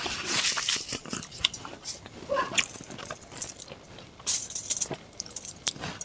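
Close-miked eating sounds: wet chewing, lip smacks and irregular mouth clicks as curry-soaked luchi and a chicken leg in curry are eaten by hand.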